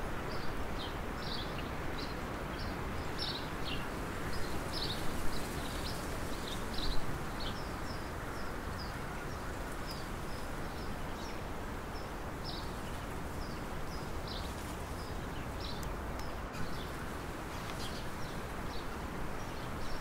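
A small bird giving short, high chirps over and over, one or two a second, over a steady rushing background noise.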